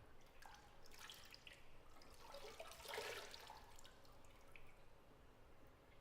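Faint bathwater sounds in a tub: scattered drips and small splashes that build to a brief slosh about three seconds in.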